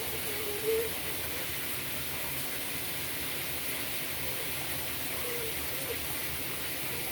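Water running steadily, an even hiss.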